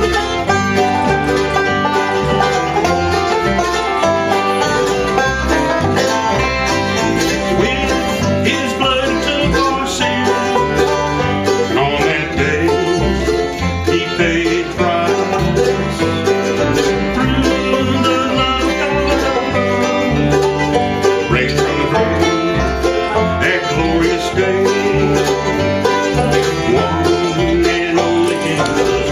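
Live bluegrass gospel band playing an instrumental passage: banjo picking over strummed guitar, with a steady bass line underneath.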